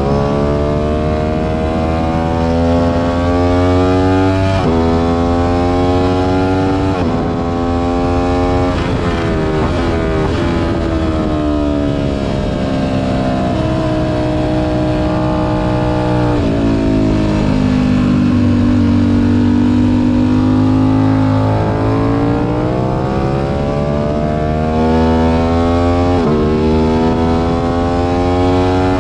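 Aprilia RS 660's parallel-twin engine at track speed, heard on board: revs climb and cut back sharply with each upshift, fall through downshifts about halfway in, then climb through the gears again. Wind rushes past throughout.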